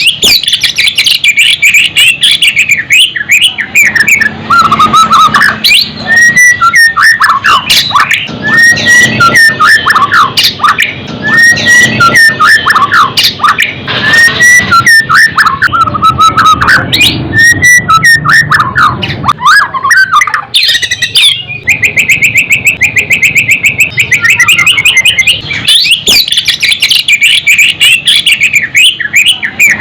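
White-rumped shama (murai batu) singing loudly and almost without pause: a varied run of slurred whistles, fast rattling trills and harsh notes, the heated fighting song that keepers play to rouse other songbirds.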